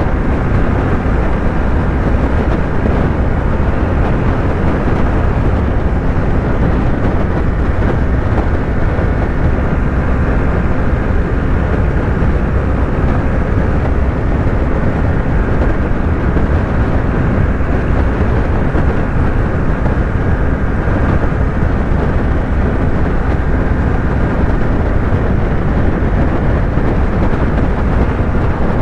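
Yamaha YZF-R3's parallel-twin engine holding a steady highway cruise, buried in heavy wind and road noise with no gear changes or revs.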